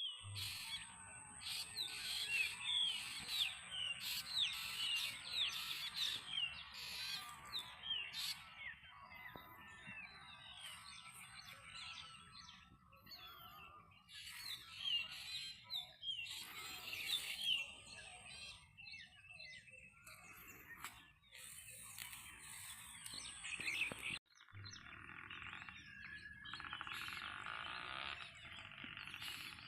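Many birds chirping and calling in a morning chorus, with a steady high-pitched whine on and off; the sound cuts out abruptly about two thirds through and resumes as a steadier chorus.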